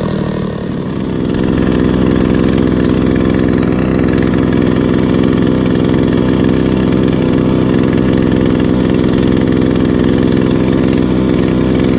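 Small 2 hp outboard motor running steadily, picking up speed about a second in and then holding an even note.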